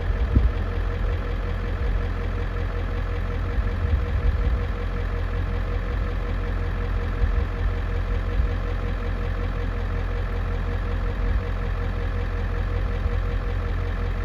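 Loaded truck's engine running steadily on the road: an even, low drone with a faint steady tone above it.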